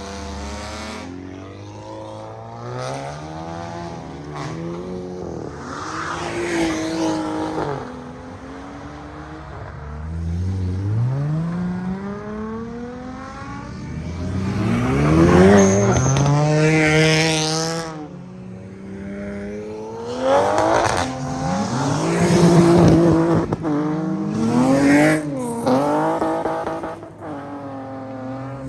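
Car engines revving and accelerating one after another, each a rising then falling engine note. The loudest is a long climb to a high peak about three-fifths of the way in that cuts off sharply, followed by several shorter revs.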